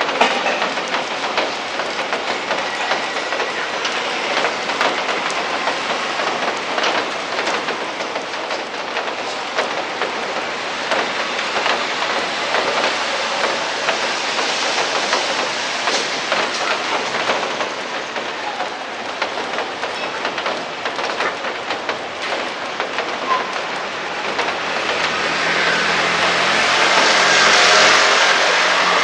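Steady rain falling, with many drops pattering and ticking on hard surfaces. Near the end a louder rushing swell with a low hum builds and peaks, like something passing by.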